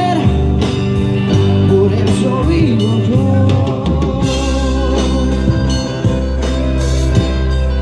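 Live band music: drum kit, electric bass and guitar playing an instrumental passage of a Latin pop song, with a melodic line gliding over the top.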